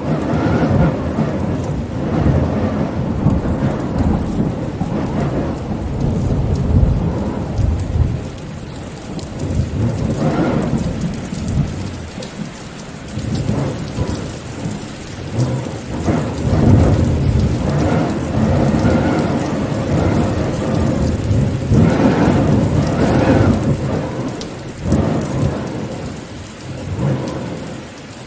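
Rainstorm: steady rain with a deep rumbling that swells and fades every few seconds.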